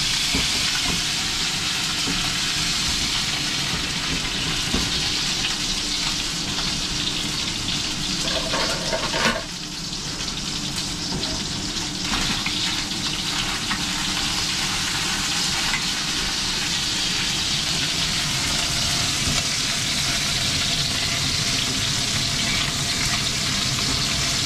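Chicken wings sizzling in hot oil in a nonstick wok while they brown, stirred and turned with a wooden spatula, with a steady hiss throughout. There is a brief knock about nine seconds in.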